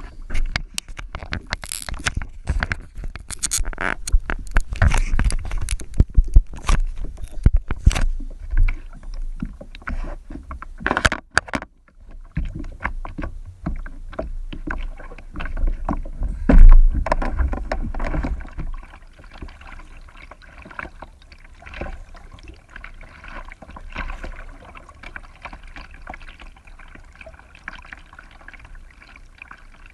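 Kayak being paddled: water splashing and the paddle and hull knocking, with many loud knocks and bumps through the first half and one loud bump about seventeen seconds in, then quieter steady water trickling and lapping.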